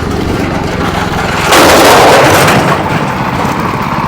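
A vehicle engine running, then a loud crash lasting about a second, starting about a third of the way in.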